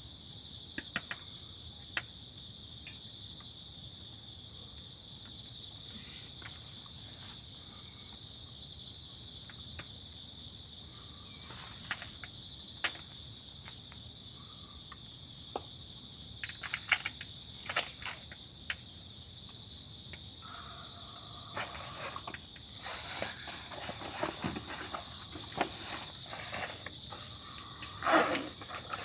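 Insects, likely crickets, chirping in short pulsed trills about once a second over a steady high insect drone. Scattered sharp clicks and knocks, busier in the last third.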